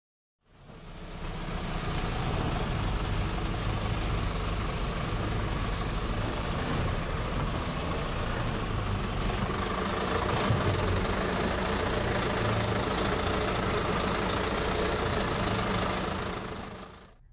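Diesel dump truck engine running steadily, fading in about half a second in and fading out near the end.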